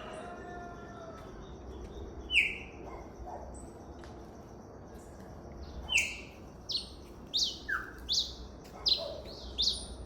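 A cravina singing: a couple of spaced, sharp down-slurred whistled notes, then from about six seconds in a quicker run of about seven sharp descending notes.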